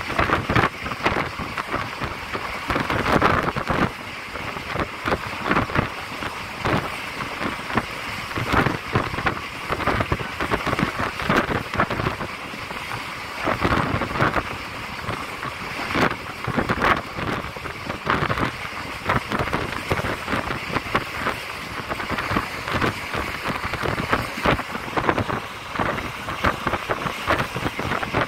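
Passenger train running along the track: a steady rushing noise with frequent, irregular clatters and rattles.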